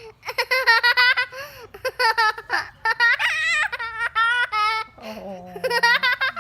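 A baby laughing: runs of quick, high-pitched giggles with short pauses between them.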